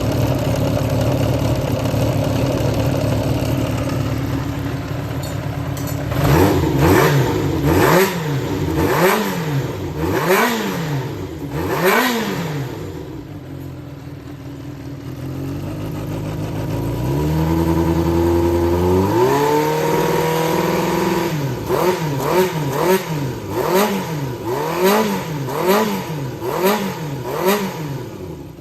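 Yamaha XJR400 (4HM) air-cooled inline-four engine running, with the throttle blipped repeatedly: about five quick revs between six and twelve seconds in, a slower stepped climb held for a few seconds, then about seven more quick blips near the end. Its seller calls it in top form, with no abnormal noise.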